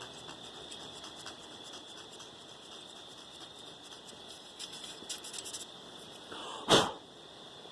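Faint rubbing and scratching from hands working over the bare engine parts, with a few light scratchy ticks about halfway through, then a single sharp knock near the end.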